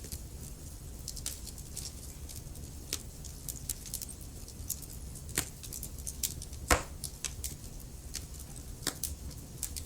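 Wood fire crackling in a fireplace: irregular sharp pops and snaps of burning logs over a low, steady rumble of flame, with one louder pop about two-thirds of the way through.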